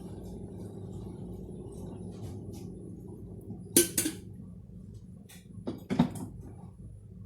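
Dishes clinking and knocking in two short clusters, about four and six seconds in, over a steady low hum.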